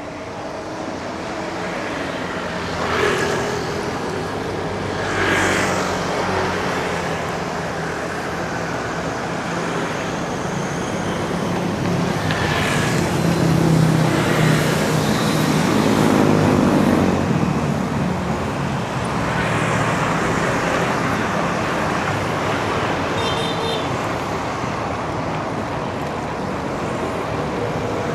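Road traffic: motor vehicles passing close by, one after another, over a steady din of traffic, with the loudest and longest pass-by about halfway through.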